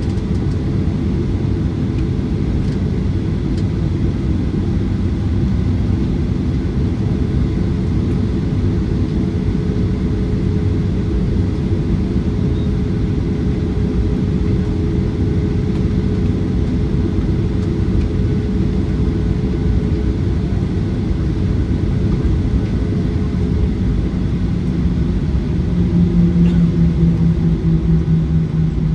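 Cabin sound of a Boeing 737-900ER with its CFM56-7B engines at low power on the ground: a steady low rumble with a held hum. About three seconds before the end, a louder, slightly falling hum comes in.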